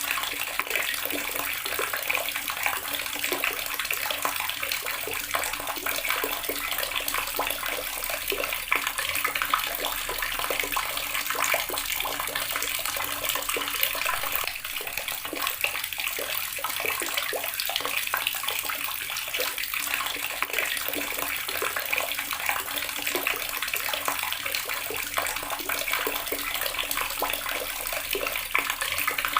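Water running steadily from a tap and splashing into a basin below, a continuous bright splashing.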